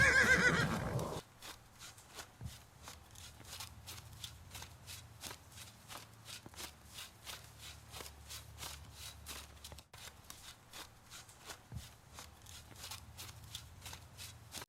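An animal's loud, wavering call that falls slightly in pitch over about the first second, followed by a steady run of light clicks and taps, a few a second, over a low hum.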